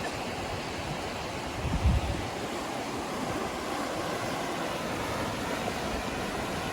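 Tidal bore waves surging in, a steady wash of rushing water, with a brief low thump about two seconds in.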